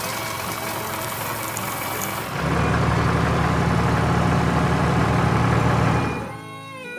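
Cartoon heavy-vehicle engine sound effect: a steady, pulsing idle that comes in louder about two and a half seconds in and drops away near the end.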